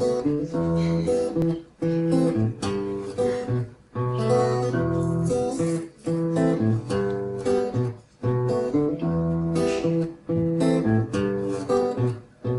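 Acoustic guitar strumming chords as a song's instrumental intro, with brief breaks about every two seconds.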